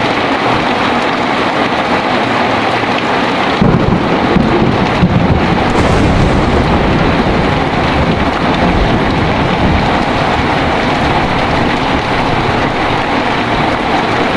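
Heavy rain falling steadily, with a roll of thunder that rumbles in about three and a half seconds in, is loudest over the next couple of seconds, and keeps rolling after that.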